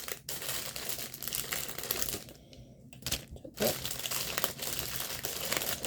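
Packaging crinkling as a craft kit is handled and unwrapped, with a short lull about halfway through.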